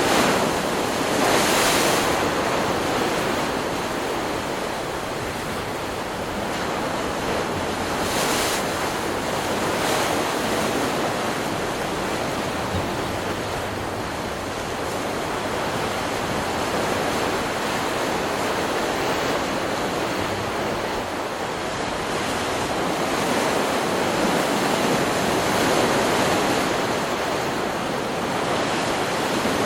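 Ocean surf: waves breaking and washing up a beach in a continuous rushing wash, with brief hissing surges about a second in and again about eight seconds in.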